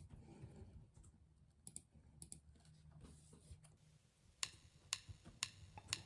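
Near silence with faint scattered clicks, then a run of sharper clicks about twice a second over the last second and a half.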